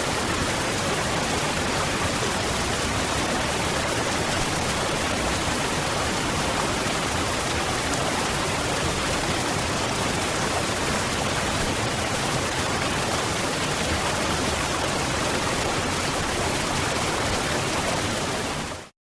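Waterfall: falling water in a steady, even rush that fades out quickly near the end.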